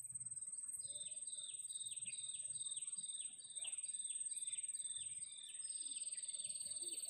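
A bird calls a quick series of short, falling whistled notes, about two or three a second, ending in one longer note. Under it runs a steady high-pitched insect drone.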